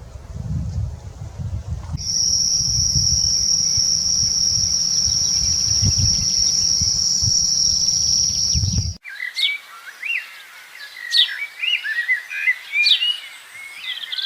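Wind buffeting the microphone, then a steady, high-pitched insect buzz over the wind for about seven seconds. It breaks off abruptly and is replaced by small birds singing quick, varied chirps and trills.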